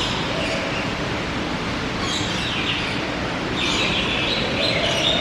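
Birds chirping and squawking over a steady rushing background noise, the calls thickening in the second half.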